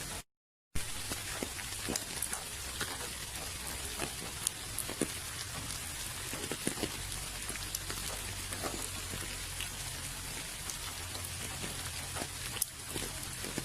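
Steady rain: an even hiss with many separate drops ticking close by. The sound cuts out to total silence for about half a second right at the start.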